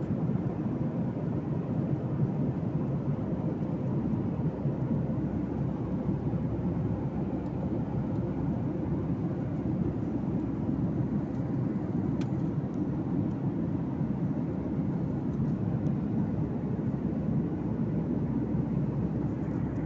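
Steady cabin noise of an airliner in flight: an even, low noise of engines and airflow with a faint steady hum, unchanging throughout.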